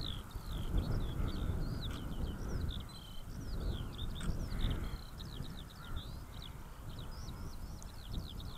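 Continuous birdsong of many quick, high chirps and whistles, with a low wind rumble underneath.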